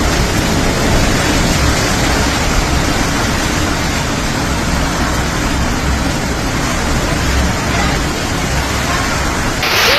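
Super typhoon wind and rain, a loud, steady, dense rushing noise that swells briefly near the end.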